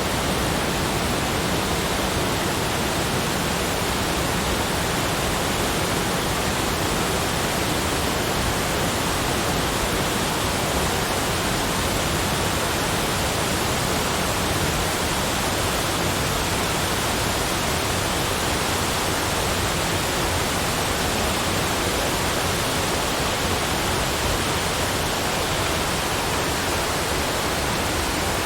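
Steady rushing noise, even in level and spread across low to high pitches, with no separate events or changes.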